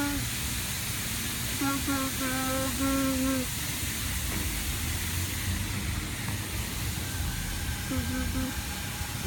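Steady hissing rush, with a person's short pitched vocal sounds, one about two seconds in and another near the end.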